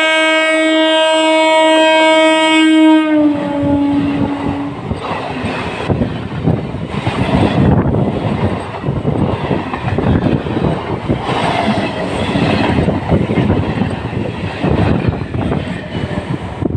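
A local train's horn sounds one long steady blast, then drops in pitch and fades about three seconds in. The train's rumble and the clatter of its wheels over the rail joints follow and carry on.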